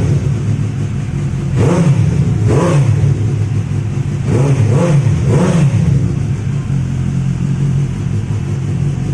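Suzuki GSX-S750's inline-four engine with an aftermarket exhaust, idling and revved with about five quick throttle blips in the first six seconds, then settling back to a steady idle.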